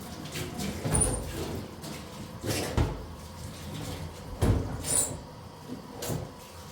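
Hard objects being handled: irregular knocks and clunks, about six in all, the loudest near the middle.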